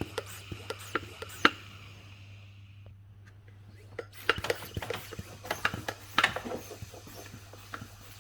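Scattered light clicks and knocks, as of objects being handled, over a steady low hum. They thin out a few seconds in, then come thick again in the second half.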